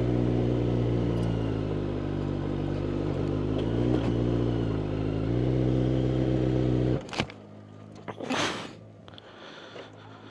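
Kawasaki Z900 inline-four motorcycle engine with a Yoshimura exhaust idling steadily, its pitch sagging a little and recovering. It cuts out suddenly about seven seconds in, followed by a sharp click and a brief rustle.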